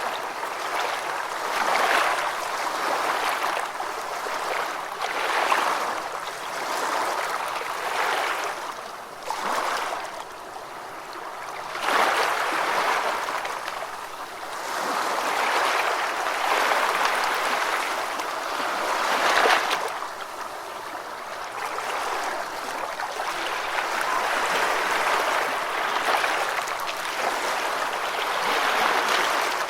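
Ocean waves washing and breaking on the shore, the surf swelling and easing every few seconds, with a bigger break a little before the middle.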